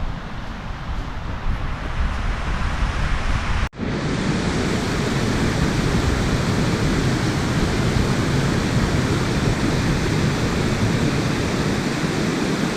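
Wind rumbling and buffeting on the microphone. About four seconds in, a brief dropout at an edit, after which a steady, fuller rushing noise carries on.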